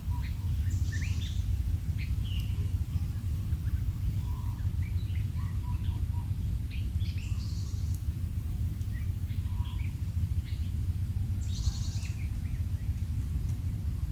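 Quail chirping: many short, scattered calls and quick pitch flicks, with a few denser bursts, over a steady low rumble.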